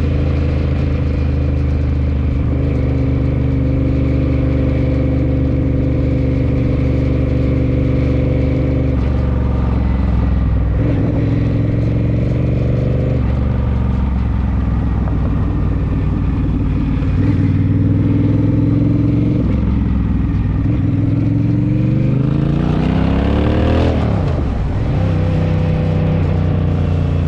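Honda Rebel motorcycle engine running under way. Its pitch holds steady, then climbs and drops back a few times as the rider shifts gears, with a long climb near the end before another shift.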